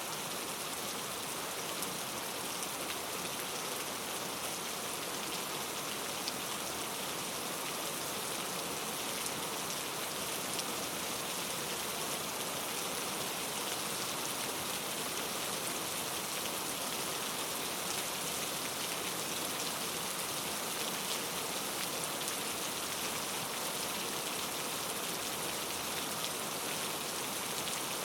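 Steady rain falling, an even hiss of many drops with scattered faint individual drop ticks.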